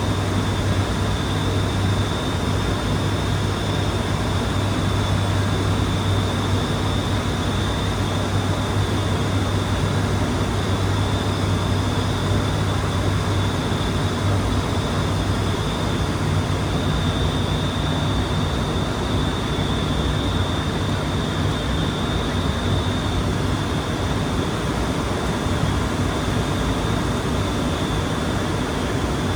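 Steady drone of an ATR 72-600's turboprop engines and propellers, a continuous low hum with a thin high whine.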